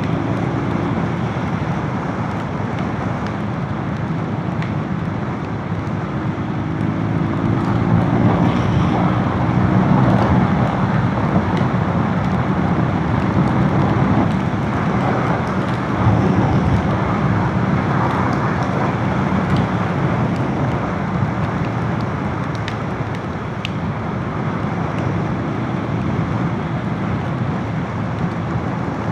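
Motorcycle running at road speed, its engine note under steady wind and road noise, swelling a little louder for a stretch around the middle.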